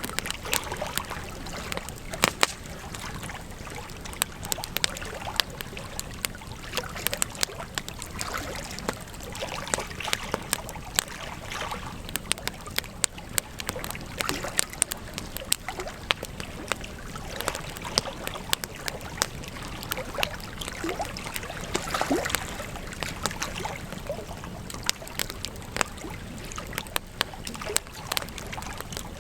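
Campfire crackling, with frequent irregular sharp pops and snaps over a steady hiss.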